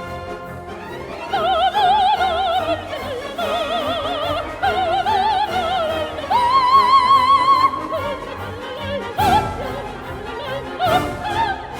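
Coloratura soprano singing an operetta aria with wide vibrato over an orchestra, holding one long high note about six seconds in, then short quick notes near the end.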